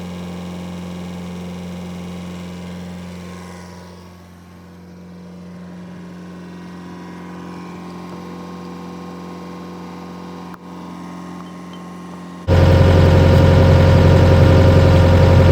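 A steady low hum, then about twelve seconds in a much louder excavator diesel engine cuts in abruptly, running steadily at idle.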